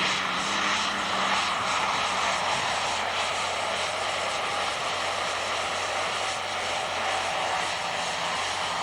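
Super stock pulling tractor's turbocharged diesel engine running at full power down the track, a steady loud engine noise with a high whine held over it.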